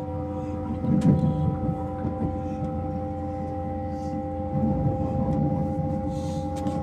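Passenger train pulling away, heard from inside the carriage: a steady hum made of several held tones from the train's drive over a low running rumble. The rumble swells briefly about a second in and again for the last two seconds.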